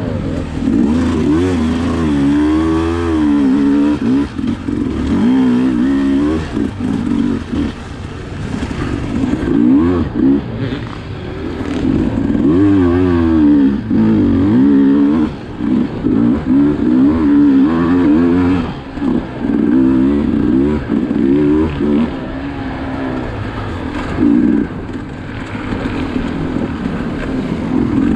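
Sherco SE 300 two-stroke enduro motorcycle engine being ridden hard, revving up and down over and over, its pitch rising and falling with each throttle change and shift.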